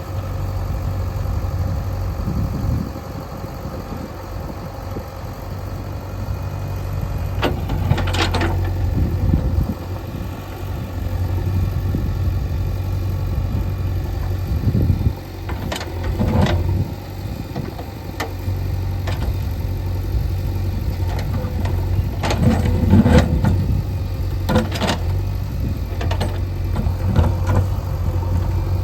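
JCB 3DX backhoe loader's diesel engine running steadily under work, with a series of sharp metallic clanks and knocks as the bucket strikes and shifts stones.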